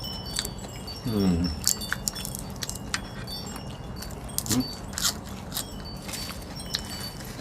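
Wind chimes tinkling: scattered short, high ringing notes and light clinks. A person makes a brief voiced sound about a second in.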